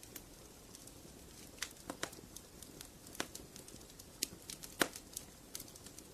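Fire crackling in a fireplace: irregular sharp pops and snaps over a soft steady rumble, the loudest pop a little under five seconds in.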